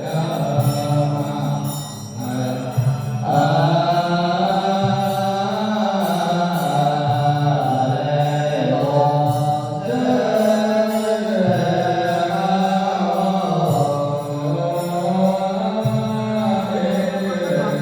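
Buddhist chanting sung in a melodic voice over a steady sustained musical backing, one long phrase gliding into the next.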